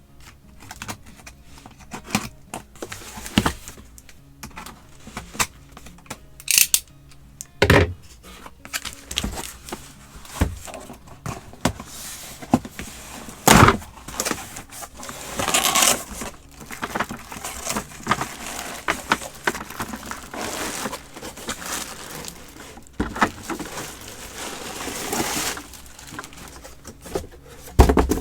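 An egg holder with its trays and transparent box being unpacked and handled: irregular rustling and crinkling of packaging, mixed with scattered sharp clicks and knocks as the parts are taken out and set down.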